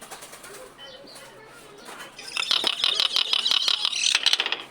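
Pet myna giving a few faint chirps, then a loud, harsh, raspy call with rapid clicking from about two seconds in, breaking off just before the end.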